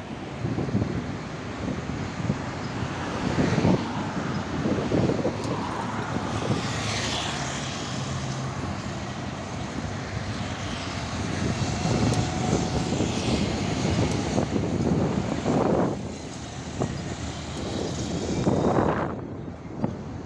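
Heavy trucks driving past on a highway: engine and tyre noise swelling and fading as each one goes by, several passes in a row.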